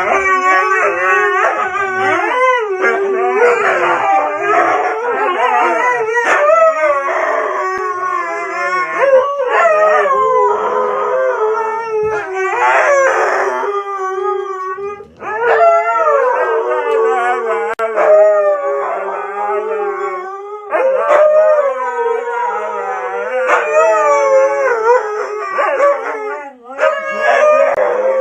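Dog howling in long, wavering calls that overlap one another, with brief breaks about 15 and 27 seconds in.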